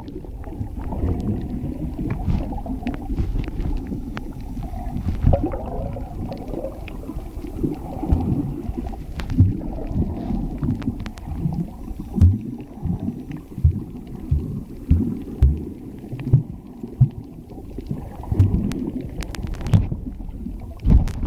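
Muffled underwater sound from a submerged camera: low, dull water noise with many irregular knocks.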